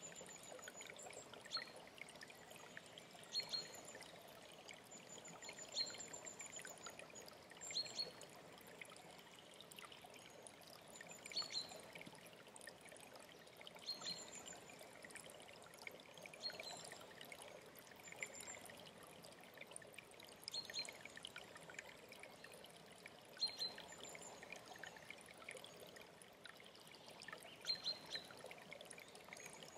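Water flowing steadily in a stream, with a bird repeating a short, high call about every two to three seconds, some calls followed by a brief higher trill.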